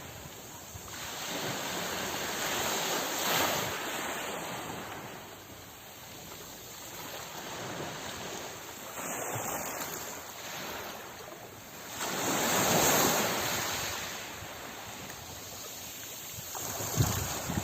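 Sea waves washing onto a shore: a steady rush of surf that swells and ebbs in slow surges, with the biggest swells about three seconds in and again around thirteen seconds.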